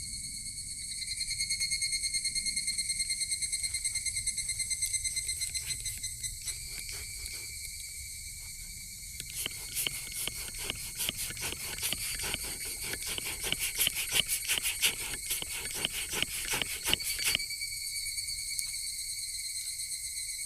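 Crickets trilling steadily, their high-pitched song pulsing more loudly for a few seconds early on. In the middle, a dense run of irregular crackling clicks lasts about eight seconds, then stops.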